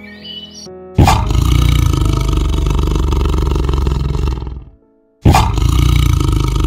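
Tiger roaring: two long, deep, rough roars, the first starting about a second in and lasting over three seconds, the second following after a brief silent pause.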